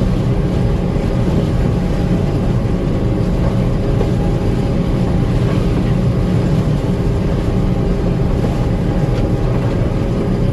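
Gleaner M2 combine running steadily while harvesting corn: a loud, constant low engine and machinery drone.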